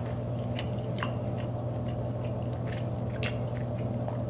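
A person chewing soft, non-crispy fried popcorn chicken with the mouth closed: faint scattered wet clicks over a steady low hum.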